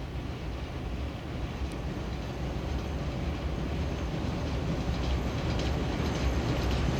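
Freight train behind a 2M62 diesel locomotive rolling by, a steady low rumble that slowly grows louder, with wheel clicks coming in over the second half.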